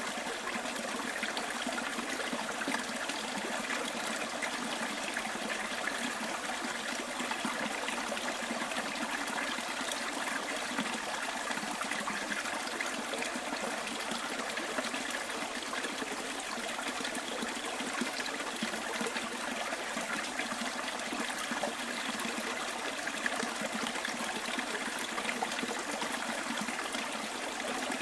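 Small stream trickling and flowing over stones, a steady even rush of water with a bright splashing quality.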